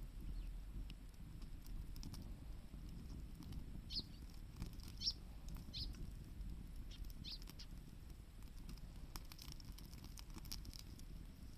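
Wood campfire crackling with a steady low rumble and a run of sharp pops and clicks near the end, while a small bird gives about five short, high, falling chirps in the middle.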